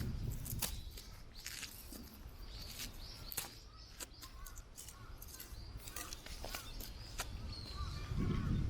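Scattered light knocks and clicks, likely firewood pieces being handled and sorted, over a low wind rumble on the microphone that swells again near the end.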